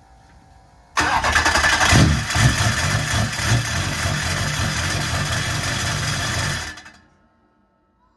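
LB7 Duramax 6.6-litre V8 turbodiesel cranking over hard on the starter, trying to fire after sitting. It comes in suddenly about a second in, runs loud and rough for about six seconds, and stops abruptly.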